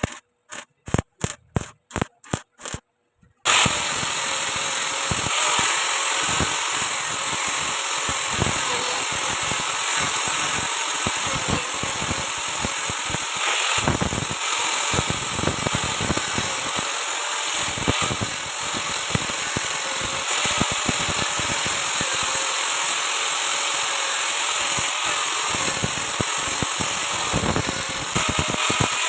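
A quick series of sharp clicks, then a stick-welding arc crackling and hissing steadily on galvanized steel pipe.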